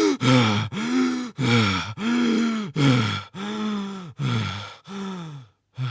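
A person breathing heavily and out loud, a run of about nine short, deep-voiced groaning breaths, about one and a half a second. Each breath rises and then falls in pitch.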